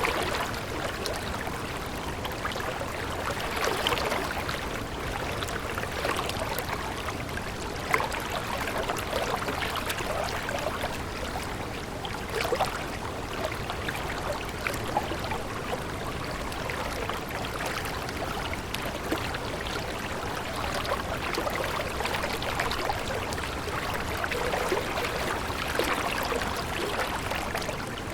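Stream water running steadily, with many small splashes and trickles throughout.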